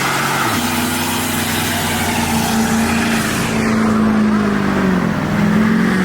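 Car engine held at high revs, its pitch steady, then sagging about five seconds in and climbing back, over a loud hiss.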